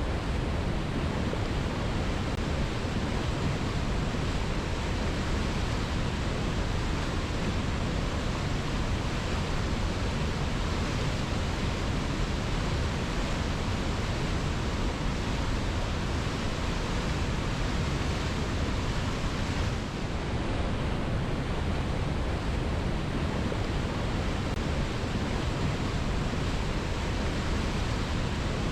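Waterfall pouring steadily: a dense, even rush of falling water with no separate splashes, dipping briefly about twenty seconds in.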